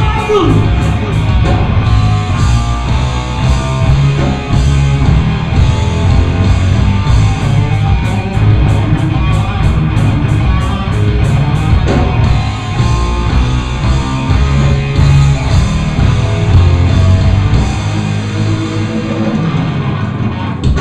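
Live hard-rock band playing an instrumental passage: electric guitar over bass and drum kit, with steady cymbal hits. The bass end drops away briefly near the end.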